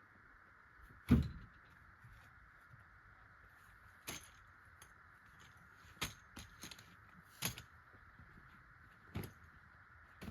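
Camp gear being handled during camp setup: a heavy thump about a second in, then a string of sharp clicks and knocks.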